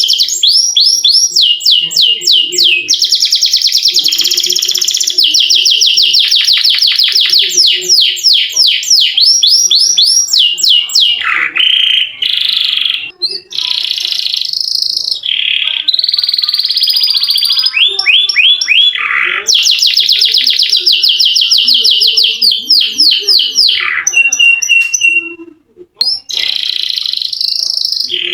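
Domestic canary singing a long rolling song: fast runs of repeated notes and sweeping trills, one after another, with a short break about halfway through and another near the end.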